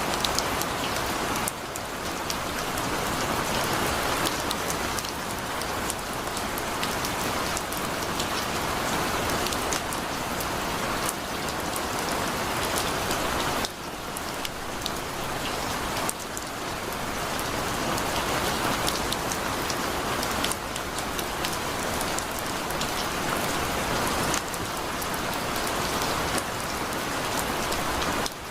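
Heavy rain falling steadily, a dense hiss of drops with scattered sharper drip ticks. The loudness drops abruptly and recovers a few times.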